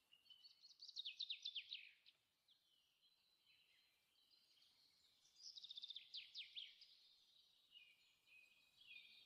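A songbird singing faintly in runs of quick, falling chirps, with louder runs about a second in and again from about five and a half seconds, over thinner, steadier high calls.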